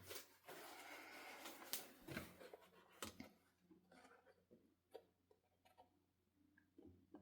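Faint hiss of spraying over the first couple of seconds, then scattered light clicks and taps of spray bottles and craft tools being handled.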